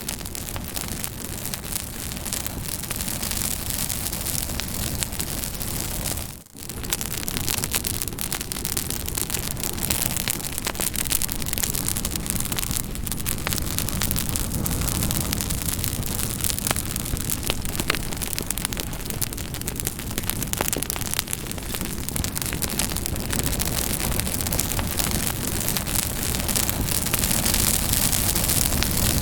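Campfire crackling: a steady rush of burning wood covered in many sharp pops and snaps, with a brief drop in sound about six seconds in.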